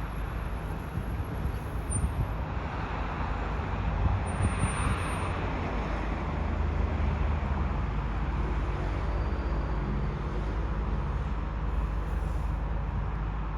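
A train running past, a steady low rumble with a broad swell of noise about four to six seconds in.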